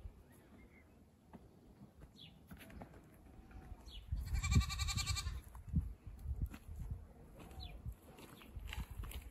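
A goat bleats once, a quavering call of about a second near the middle, among a few faint short high chirps.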